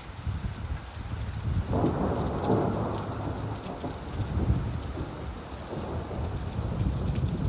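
Steady rainfall with a deep, rolling rumble of thunder that swells about two seconds in and slowly dies away.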